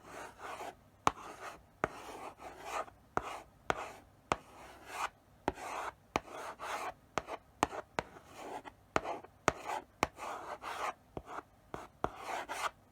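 Chalk writing slowly on a blackboard: a run of short scratchy strokes, each set off by a sharp tap as the chalk meets the board.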